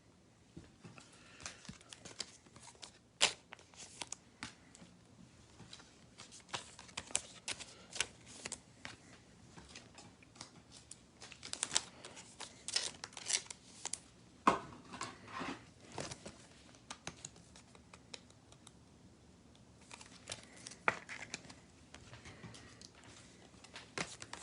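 Trading cards and their packaging being handled at close range: irregular light clicks, slides and crinkling, with a few sharper snaps about 3, 14 and 21 seconds in.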